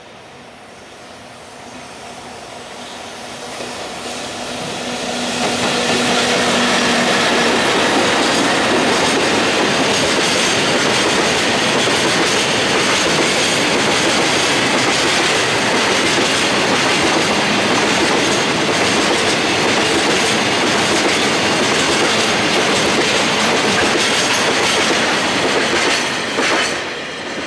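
Freight train of tank cars hauled by two JR Freight EF64 electric locomotives, approaching and passing close by. A steady hum carries as it draws near and the sound builds for about six seconds. Then comes a long loud stretch of steel wheels clattering over the rail joints, which drops away with a few last clacks near the end as the final car passes.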